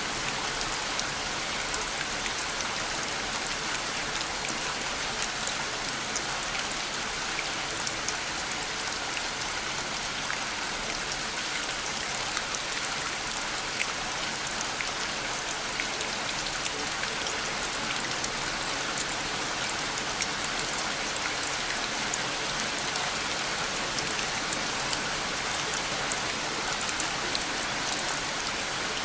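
Steady rainfall pattering on a surface: an even hiss with many small drop ticks, no thunder or other sounds.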